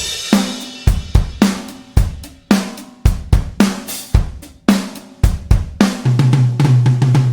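Sampled acoustic drum kit from the Toontrack EZdrummer 3 plugin playing a groove of kick, snare, hi-hat and cymbals, starting right at the beginning, then a denser fill of low pitched drum hits stepping down in pitch near the end.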